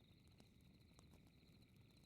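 Faint crackling fireplace: small scattered pops and crackles, one a little sharper about a second in, over a low rumble, with a steady high pulsing trill behind it.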